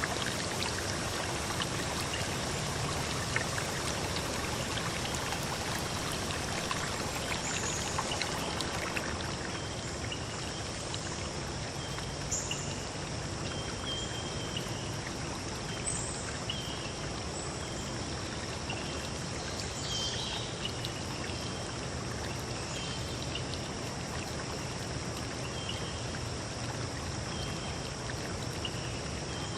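Steady rushing water, like a stream, a little louder in the first few seconds, with short faint high-pitched tones sounding now and then over it.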